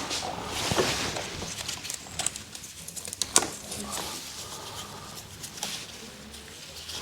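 Light handling noises of tools and parts under a car: scattered small clicks and rustling, with one sharper click about three and a half seconds in.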